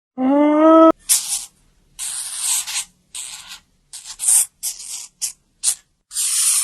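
A short pitched call that is cut off abruptly, followed by a string of irregular hissing bursts of varying length.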